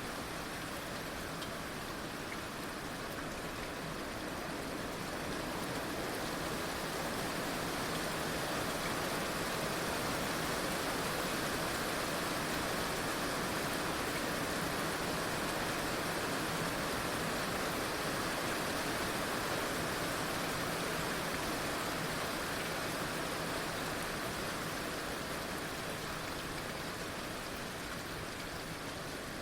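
Heavy rain falling in a steady, dense hiss, swelling a little louder through the middle and easing back near the end.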